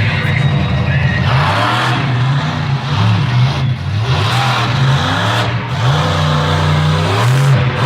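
Vehicle engine revving hard and easing off again and again, its pitch climbing and dropping every second or so.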